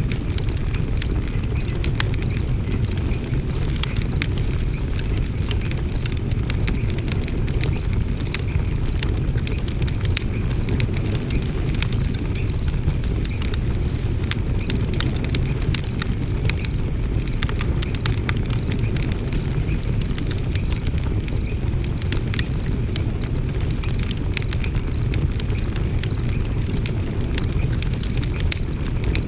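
Wood fire burning in a fire stand, crackling and popping over a steady low rumble of flame. A regular high insect chirping pulses throughout.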